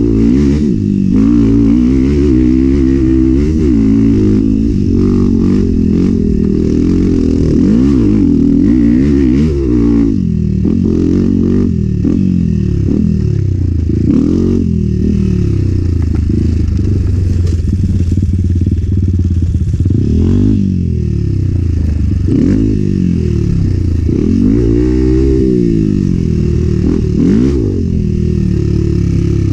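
Enduro motorcycle engine revving up and down over and over as the throttle is worked and gears change while riding, with some clatter and scraping.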